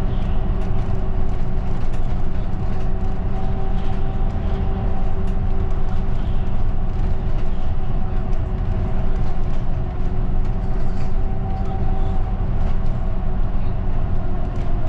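Route bus driving, heard inside the cabin: a steady low engine and road rumble with a steady whine and light rattling ticks.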